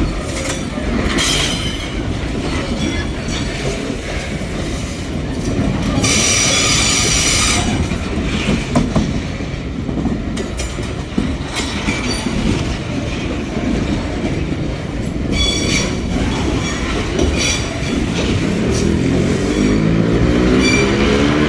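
Freight train wagons rolling past on metre-gauge track with a steady rumble and clatter over the rail joints, and shrill wheel squeals about six seconds in and twice more briefly later. Near the end an engine's pitch rises steadily.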